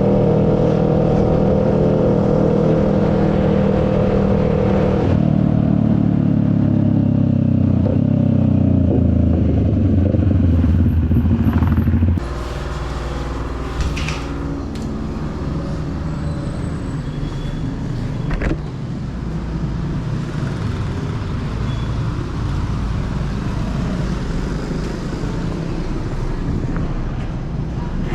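CFMoto 400NK's parallel-twin engine running at a steady pitch, then winding down in a falling note as the bike slows. About twelve seconds in the engine note drops suddenly to a lower, rougher rumble, as at idle.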